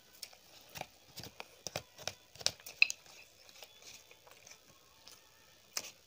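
Close-miked eating sounds: a man chewing a mouthful of rice, with quick wet mouth clicks and smacks, thickest in the first three seconds and sparser after.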